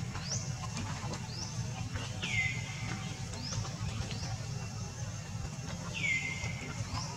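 Bird calls: two calls a few seconds apart, each sliding down in pitch and then holding steady, with quick high chirps in between.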